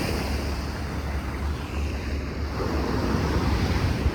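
Sea waves washing on the shore, with wind buffeting the microphone as a low rumble.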